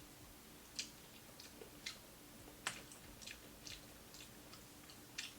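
Close-miked chewing of fried fish: about ten soft, wet mouth clicks at uneven intervals, over a faint steady hum.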